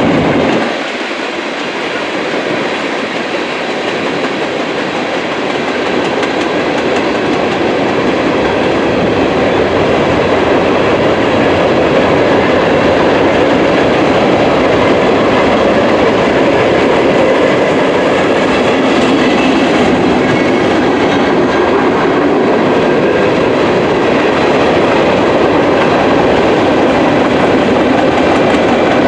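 Freight cars of a passing mixed freight train rolling by, steel wheels rumbling and clattering on the rails in a steady, loud run. The sound dips briefly about a second in, then builds back up.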